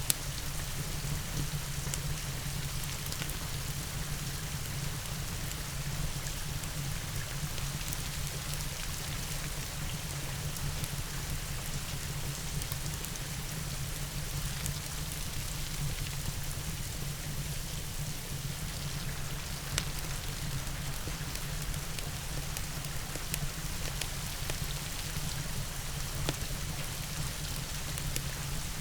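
Steady rain, with scattered sharp clicks and pops of a crackling fireplace fire mixed in.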